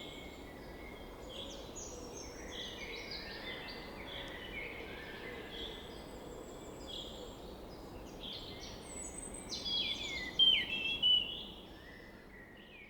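Several wild birds singing and chirping, many short calls overlapping, some sliding up or down in pitch, over a faint steady outdoor hiss. The calls are loudest about ten to eleven seconds in, then the sound fades out.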